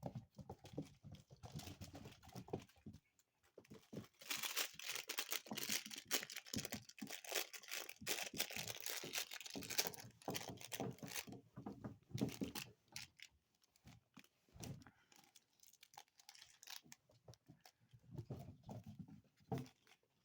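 Dachshund puppies at play, making rustling and crinkling noises with many scattered clicks and taps, busiest and loudest for several seconds in the middle.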